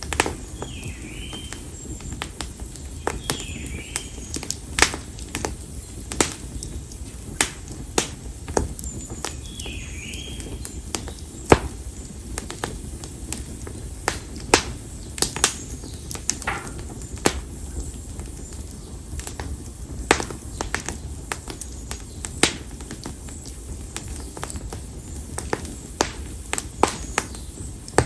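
Split konara oak firewood burning in an open campfire, crackling with irregular sharp pops over a low steady hiss. Three short chirps sound in the first ten seconds.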